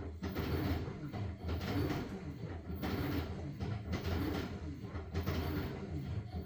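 LG washing machine washing a load of blankets: a steady low motor hum with water churning and sloshing as the drum turns, and a few irregular soft knocks.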